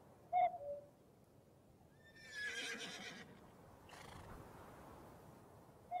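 A bird gives a two-note falling call, once about half a second in and again at the end. About two seconds in, a harsher, noisy call with a falling whine lasts just over a second.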